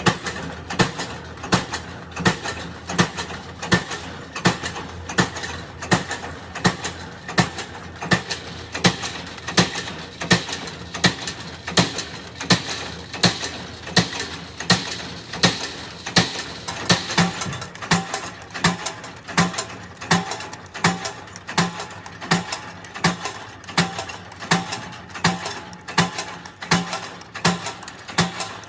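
Regular mechanical knocking, about two sharp strikes a second, keeping an even beat.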